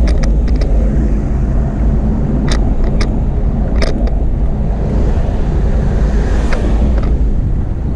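Steady low rumble of riding noise from a bicycle under way: wind and rolling noise on the camera, with a few sharp clicks and rattles from the bike scattered through it.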